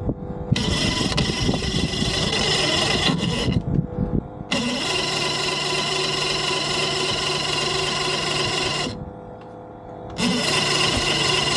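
Mercury 2.4L V6 outboard cranking over on its starter without catching, in rasping stretches broken by two short pauses. The motor is flooded, with fuel leaking from the bottom carburettor, and the crew suspect fouled spark plugs.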